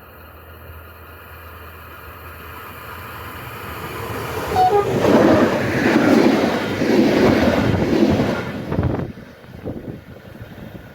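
EFE UTS610 passenger train running past close by. The rumble and wheel noise build to a loud peak in the middle, pulsing about once a second, then fade as it moves away.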